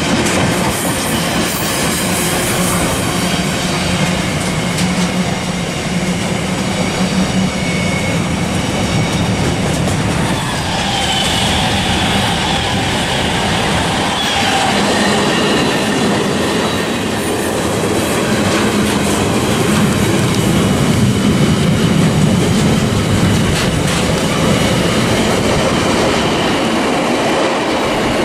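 Container wagons of an intermodal freight train passing close at speed: a steady rumble and clatter of steel wheels on the rails. A high ringing squeal from the wheels comes in about halfway through.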